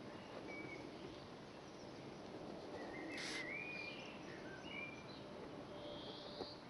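Faint birds chirping: a handful of short whistled notes and quick glides, most of them clustered about halfway through, over a steady background hiss.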